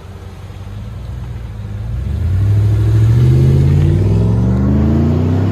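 GMC Yukon V8 exhaust through a Magnaflow 18-inch-body muffler with a 4-inch tip, being revved: engine speed climbs about two seconds in and is held up, with a deep tone.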